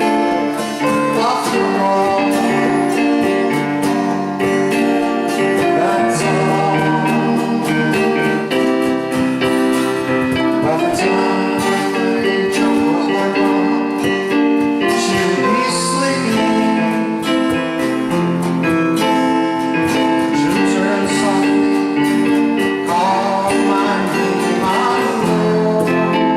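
A small band playing a song live, with guitar and keyboard holding sustained chords and notes.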